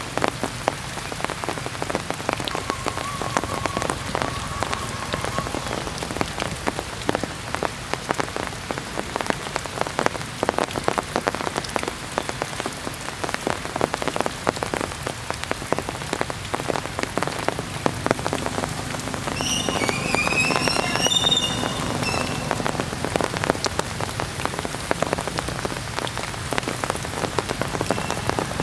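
Heavy rain falling steadily, a dense patter of drops. About two-thirds of the way through, a short run of high chirping calls sounds over the rain.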